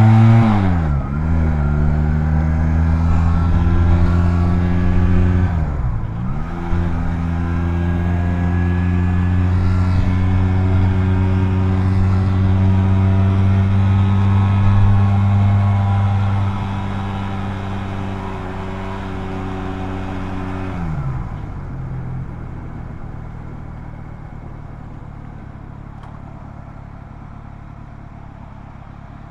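Honda Rebel 250's small parallel-twin engine running under way. Its revs dip and climb back twice in the first seven seconds, as with gear changes, then hold steady. About 21 seconds in the engine note falls away and only a much quieter low rumble remains.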